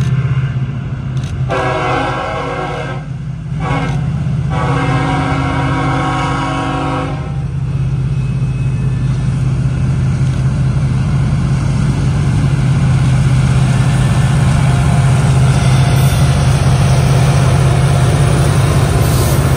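Union Pacific diesel freight locomotives running under power as they come out of a tunnel and approach, with two train horn blasts a couple of seconds in, the second longer. The engine drone grows louder as the lead units come up and pass.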